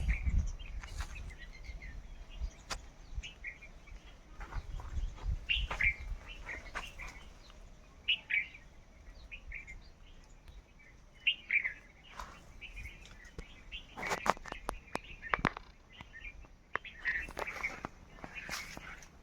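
Small birds chirping in short, scattered calls, with a quick run of sharp taps and clicks about three-quarters of the way through.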